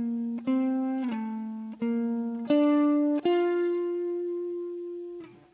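Guitar playing a single-note lick slowly, one note at a time: about five picked notes, then a last, higher note left ringing for about two seconds until it fades. The line is an enclosure around a B flat major 7th chord sound.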